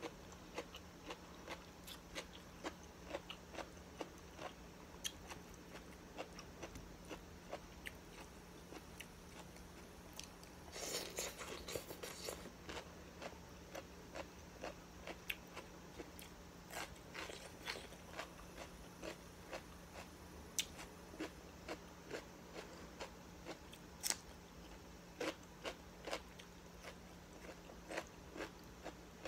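Close-up eating sounds: chewing and crunching on food, with many small sharp mouth and teeth clicks, as fried rice noodles and raw vegetables such as cucumber and bell pepper are eaten by hand. A brief noisier stretch comes about eleven seconds in.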